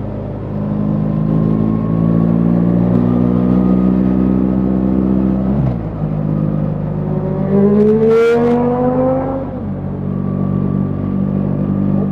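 BMW R 1300 GS boxer-twin engine running under way. Its pitch drops suddenly a little before halfway, then rises for about two seconds as it accelerates, with a brief hiss at the peak, before settling back to a steady note.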